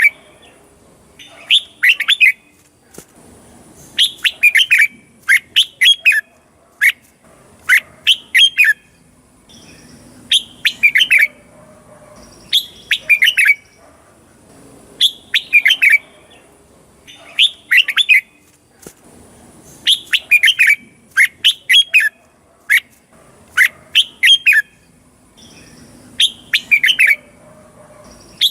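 Red-whiskered bulbul song: short phrases of quick whistled notes that drop in pitch, repeated about every two seconds.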